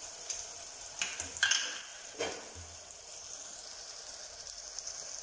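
Chopped tomatoes and shallots sizzling in coconut oil in an earthenware clay pot: a steady frying hiss, with a few short knocks about one and two seconds in.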